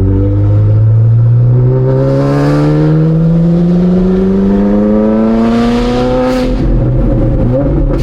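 Ferrari 458 Spider's V8 with race exhaust headers, accelerating at low road speed: one long, steady rise in pitch for about six seconds, then the note drops back abruptly near the end as the throttle comes off or the gearbox shifts.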